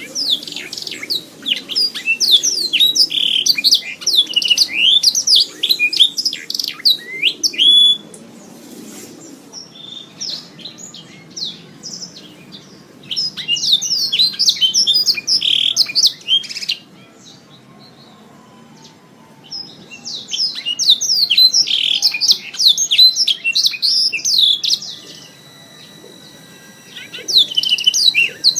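Domestic canary singing in bouts of rapid trills, warbles and chirps, four bursts of song separated by pauses of a couple of seconds.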